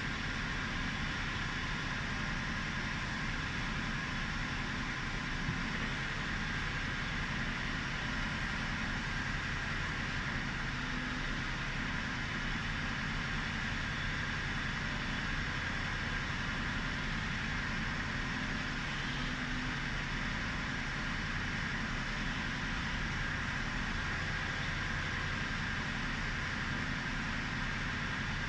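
An engine idling steadily, a constant mechanical hum with no change in the note.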